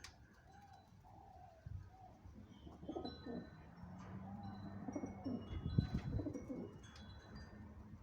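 Birds calling in a series of short calls, over low rumbling that is loudest about six seconds in.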